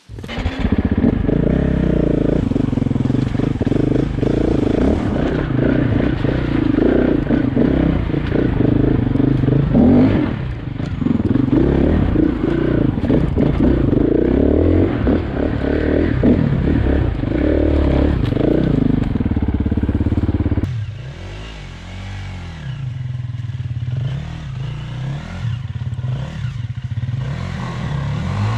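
KTM enduro motorcycle engine running close and revving unevenly, then about twenty seconds in it falls back and is heard farther off, its revs rising and falling as the bike works up the creek gully.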